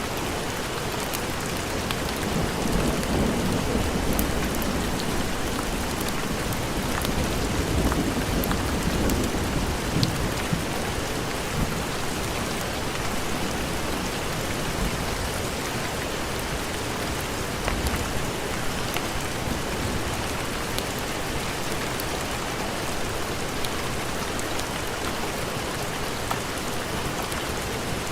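Heavy rain falling steadily, with low rumbles of thunder swelling and fading twice in the first ten seconds.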